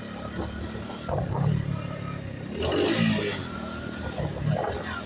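Motorcycle engine running as the bike is ridden slowly, the engine note swelling briefly as the throttle opens about a second in, with a short rush of noise near the middle.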